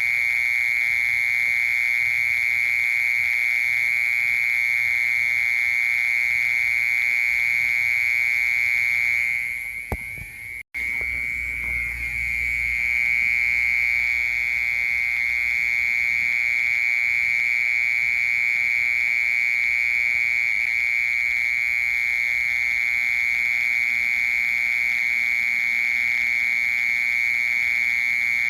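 Mole cricket singing a continuous, steady, high-pitched trill. The song drops away for a couple of seconds about ten seconds in, with a low rumble, then resumes.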